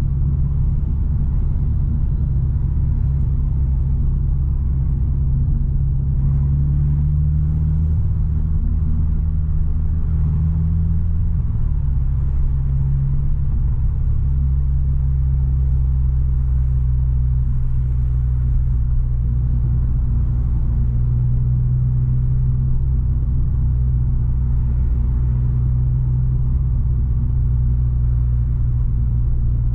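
Subaru BRZ's flat-four engine and loud, deep-toned exhaust droning steadily inside the cabin while driving in traffic. The pitch climbs for several seconds, then drops suddenly about a third of the way in and settles back to a steady cruise.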